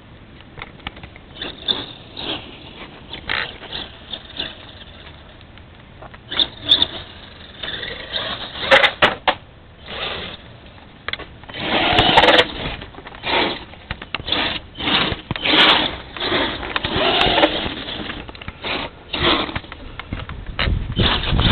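Electric motor and drivetrain of a LiPo-powered Axial RC truck whirring in short, irregular bursts of throttle, getting louder and more frequent about halfway through.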